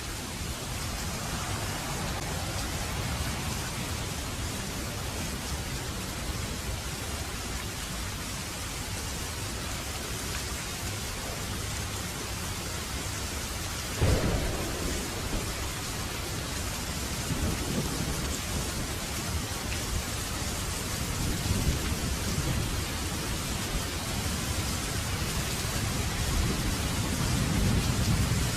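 Heavy rain falling steadily. About halfway through a sudden crack of thunder breaks in, followed by thunder rumbling in waves that grow louder near the end.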